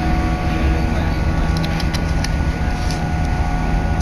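Electric train running along the track, heard from inside the carriage: a steady rumble with a constant whine, and a few light clicks about a second and a half to three seconds in.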